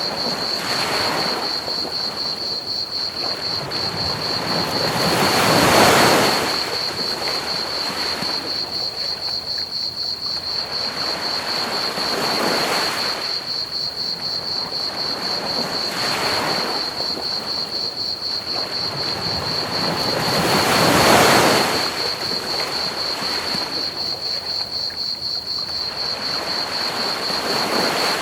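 Ocean waves washing onto a beach in slow swells every four to five seconds, two of them larger, about a fifth and three quarters of the way through. Under them runs a steady, rapid, high-pitched chirping of crickets over a constant bed of pink noise.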